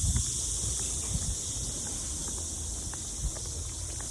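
Cicadas buzzing in a steady, high-pitched chorus, over a low wind rumble on the microphone and a few faint footstep-like clicks.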